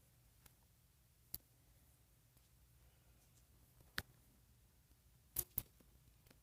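Near silence broken by four light clicks, the last two close together near the end: small handling noises as a doll and its clothes are worked on.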